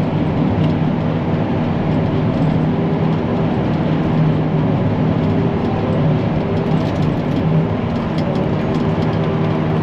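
Forage chopper running steadily under load, its engine and cutterhead giving a constant drone with a noisy rush over it.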